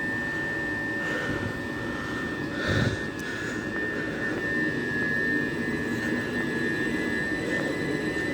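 Class 375 Electrostar electric multiple unit pulling out of the station, a steady high whine from its traction equipment over a low rumble, with a brief thump about three seconds in.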